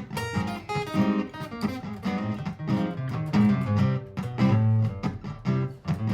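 Martin GPCPA4 acoustic-electric guitar playing an improvisation over a looped guitar part: strummed chords and picked single notes over repeating bass notes.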